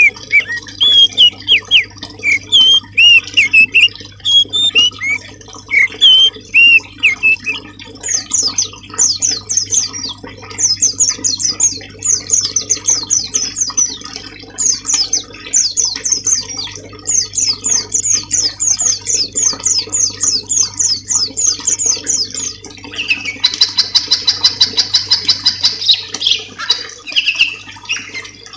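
Songbirds calling in a bird-training (masteran) recording: curving whistled notes for the first few seconds, then long runs of quick, sharp high notes repeated several times a second, and a dense buzzy trill from about 23 seconds in.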